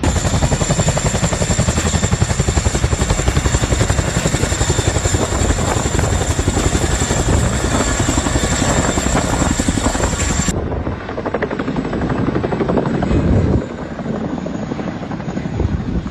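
Helicopter rotor chopping rapidly and steadily, loud and close. About ten seconds in, the sound cuts abruptly to a quieter, duller stretch with uneven rumbling.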